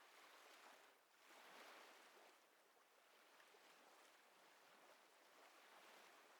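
Very faint ocean waves: a soft, even wash that swells and fades, the first swell about a second and a half in.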